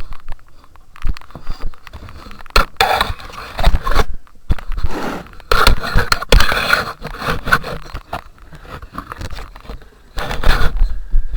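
Scraping and knocking of washing-machine parts being handled and worked into place, the drain pump being fitted. The sound comes in irregular noisy stretches with sharp knocks, loudest about three, six and ten seconds in.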